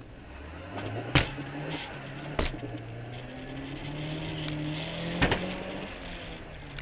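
A car engine running, its pitch climbing slowly as it speeds up, with three sharp knocks spread through it.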